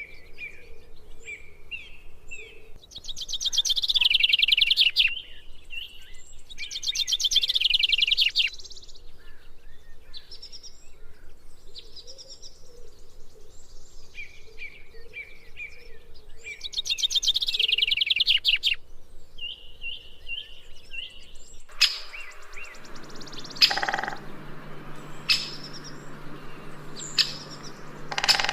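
Songbird song: series of short repeated chirps broken by three loud, very rapid trills of about two seconds each. Later, sharp single call notes take over.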